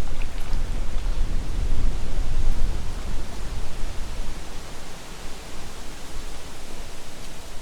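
Gusty wind blowing through trees and rustling leaves, with wind buffeting the microphone as a low rumble that is strongest in the first half and eases after about four seconds.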